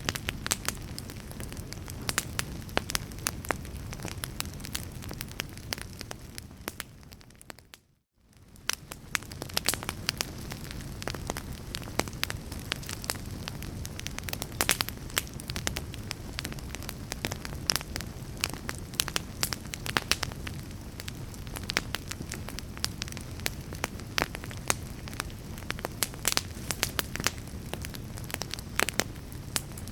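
Fire crackling, with frequent sharp pops over a steady low rumble. It fades out to near silence about eight seconds in, then fades back up.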